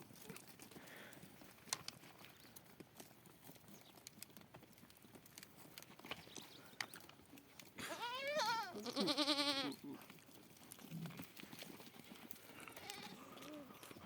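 A single loud, quavering bleat from a sheep or goat, about two seconds long, starting about eight seconds in, with fainter calls later.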